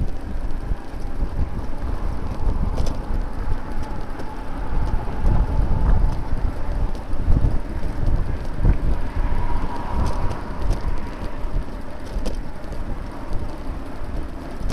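Wind buffeting the microphone of a bicycle-mounted camera while riding, a heavy, gusty low rumble, with a faint hum that swells about two-thirds of the way through.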